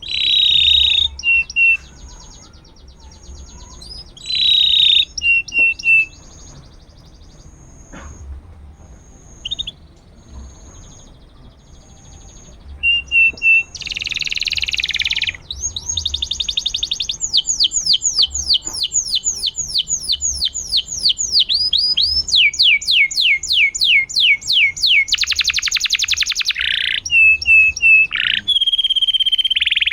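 Domestic canary singing a long, varied song: loud whistled notes and a string of short high peeps in the first half, then about halfway through it breaks into near-continuous rapid trills and fast descending rolls.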